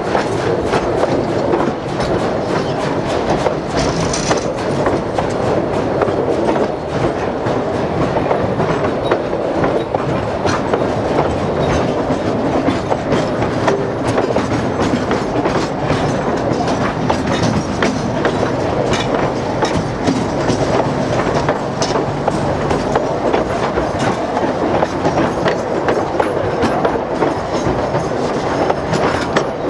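Durango & Silverton narrow-gauge steam passenger train rolling along, its wheels clicking steadily over the rail joints in a loud, continuous rumble.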